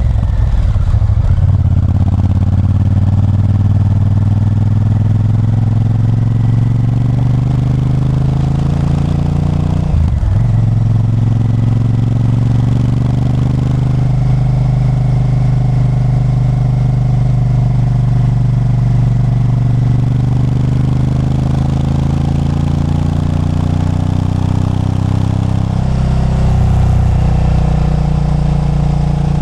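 Honda Varadero 1000's 90-degree V-twin engine pulling under way, its pitch climbing steadily, with a gear change about a third of the way in and another near the end.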